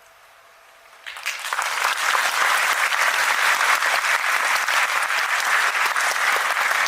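Concert audience bursting into applause as a song ends: about a second of near quiet as the last notes die away, then dense clapping that swells quickly and stays steady and loud.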